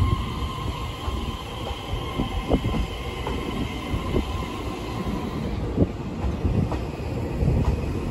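A Taiwan Railway EMU3000 electric multiple unit rolling slowly past as it departs. Its wheels knock over the rail joints roughly once a second, irregularly, over a low rumble and a steady high whine.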